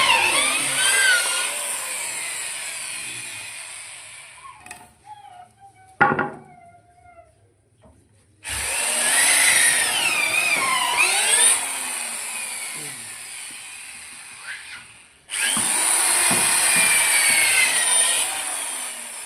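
Power woodworking tool cutting wood in three passes; each starts suddenly and fades away over several seconds.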